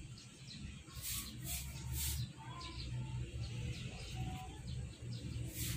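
Faint bird calls over a steady low rumble, with a few brief rushes of noise.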